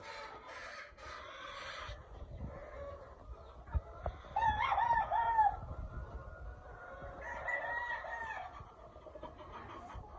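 Roosters crowing: one loud crow about four and a half seconds in, then a fainter crow from another bird near eight seconds, over a low rumble.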